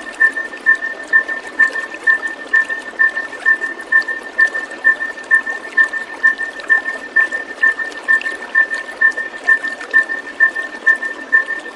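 Steady running water. Over it, a high chirp repeats evenly about twice a second, each with a fainter lower note.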